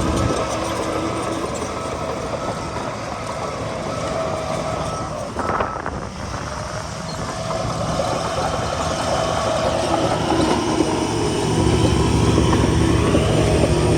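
Heavy diesel earthmoving machinery running steadily under load, with metallic clanking. A short clatter comes about five and a half seconds in, and the engine grows louder again near the end.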